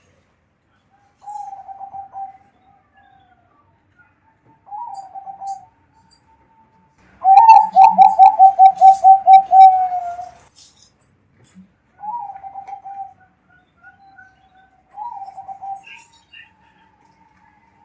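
Zebra dove (perkutut) cooing: short phrases of quick trilled notes every few seconds, with one longer, louder phrase of about a dozen rapid notes near the middle.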